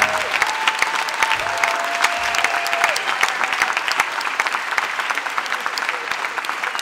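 Audience clapping after a song ends, a dense steady patter of hand claps. A couple of faint held notes sound through it in the first three seconds.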